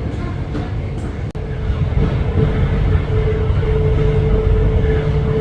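Commuter train running: a steady low rumble with a held whine, growing a little louder about two seconds in.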